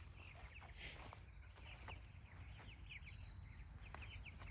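Faint, scattered high peeping of young Cornish cross meat chickens: many short, quick, falling chirps over a low steady rumble.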